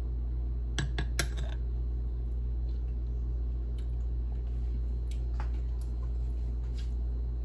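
A utensil clinking lightly against a dish, a quick cluster of clicks about a second in and a few fainter ones later, over a steady low hum.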